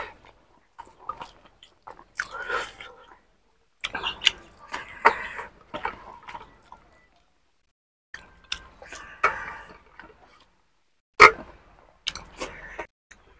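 Close-up eating sounds: chewing and smacking mouthfuls of rice and fried pork eaten by hand, with fingers mixing the food and clicking on a steel plate. It comes in short spells with silent gaps, and the sharpest click comes near the end.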